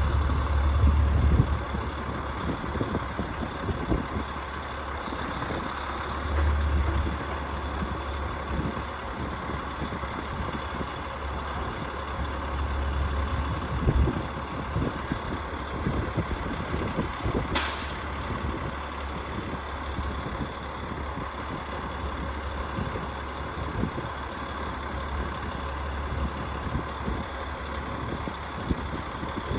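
Rooftop HVAC unit running with a steady low hum and rumble. A short, sharp hiss cuts in briefly about eighteen seconds in.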